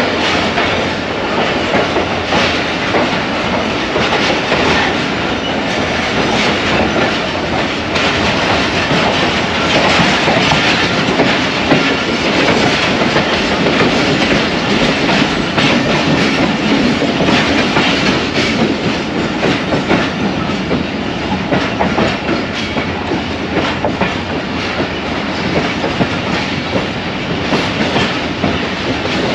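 Passenger train running along the track, heard from aboard. A steady rumble with the wheels clicking and clattering over the rail joints.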